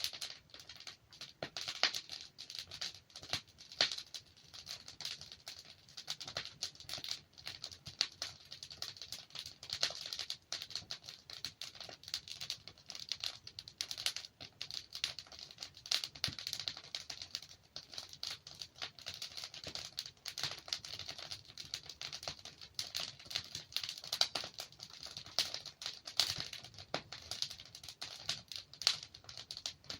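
Wood fire burning in a fireplace: continuous irregular crackling with frequent sharp pops as the logs burn.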